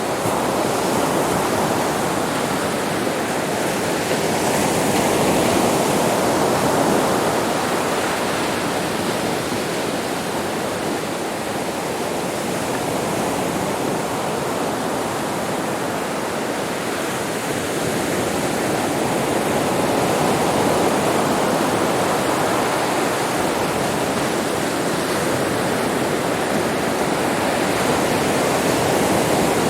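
Sea waves washing on a beach: a continuous surf wash that swells and eases slowly, fuller around five seconds in, again about twenty seconds in, and near the end.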